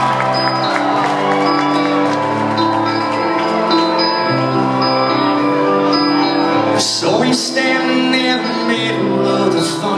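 Live country band playing a song's instrumental intro: held chords over a steady bass line. A loud hit, like a cymbal, comes about seven seconds in and another near the end.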